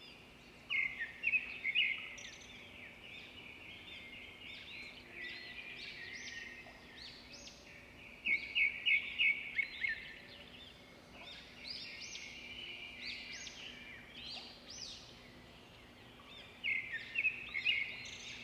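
Several birds singing and chirping together, with one louder bird giving a quick run of sharp notes three times, about eight seconds apart.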